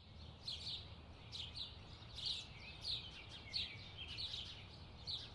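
Small birds chirping faintly, short high chirps one or two a second, over a low steady background hum.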